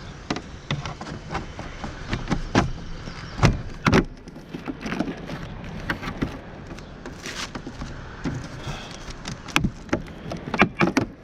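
Clicks and knocks of a new Klock Werks motorcycle windshield being set and pressed onto its mounts, with two louder knocks a little past three seconds in and another cluster of clicks near the end.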